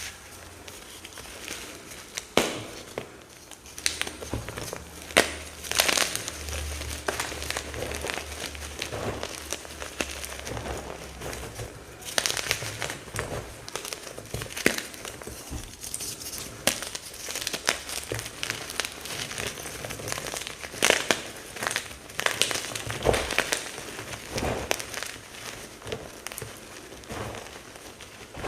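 Crunchy teal pasted chalk blocks and chunks being crushed and crumbled by hand: a dense, irregular crackling and crunching, with louder sharp snaps every few seconds as pieces break.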